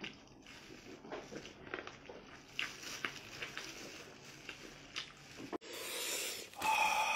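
Close-up chewing and gnawing on spicy chicken feet, with soft irregular bites and clicks. About five and a half seconds in, the sound cuts abruptly to a louder hiss, with a steady whine running through it near the end.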